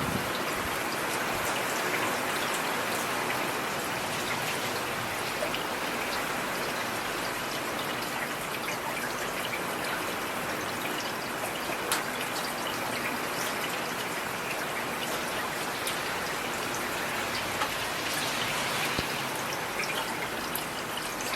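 Steady rain falling, an even hiss with a single sharper drop tap about halfway through.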